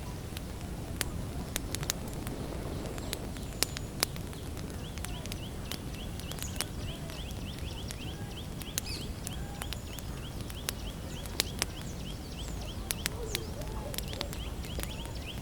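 Wood campfire crackling, with sharp irregular pops over a steady low rush. From about five seconds in, a bird repeats a high chirp about four times a second, and a few other calls come here and there.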